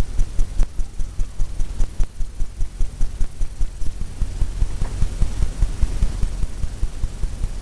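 Paintbrush tapping oil paint onto a stretched canvas, making a quick, even run of low thumps at about five a second.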